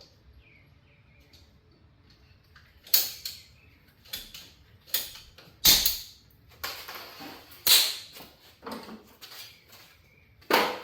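Pipe being cut by hand during a water heater hookup: about seven sharp, irregular scraping strokes, one of them drawn out for about a second.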